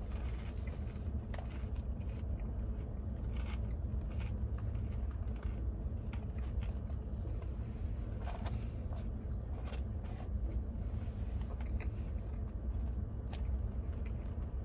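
Chewing of seasoned curly fries with a few faint crunches, over a steady low rumble.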